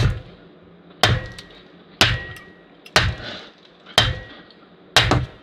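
Firewood being chopped into small kindling: sharp chopping blows about once a second, each with a short ringing tail, with two blows close together near the end.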